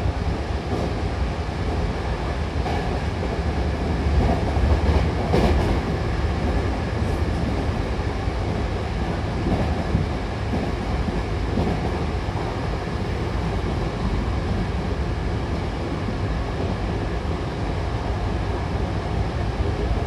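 Hankyu Takarazuka Line electric train running at speed, heard from inside the passenger car: a steady low rumble of wheels on rail, with a few sharp clicks in the first several seconds.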